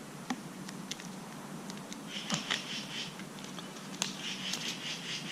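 Black vinyl wrap being wound around a garden hose over a fresh FiberFix repair: faint crinkling and handling noise with scattered small clicks, one sharper click about four seconds in.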